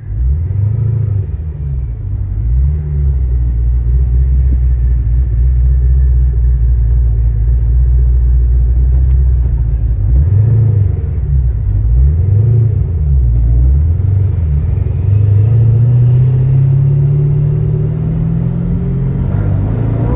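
Car engine running, its revs rising and falling in several blips, then climbing slowly and steadily over the last few seconds.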